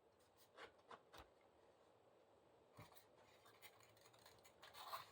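Near silence: room tone with a few faint clicks and scratches of small handling noises, a few in the first second or so and a short cluster near the end.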